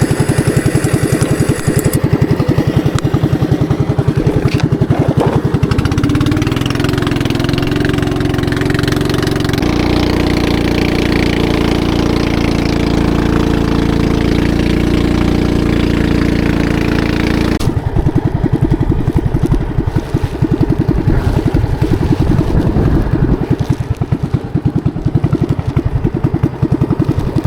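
Fishing boat's engine running hard under way, with a steady pulsing beat. Its note steps up and holds steady about ten seconds in, then drops back to a slower, coarser chug about eighteen seconds in.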